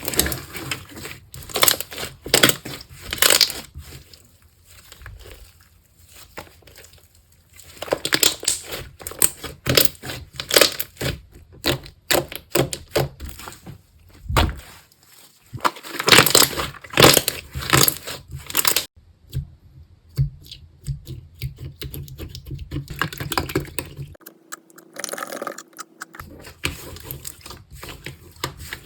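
Slime being squeezed and worked by hand, giving runs of quick crackling and clicking pops, with a few short quieter spells between the runs.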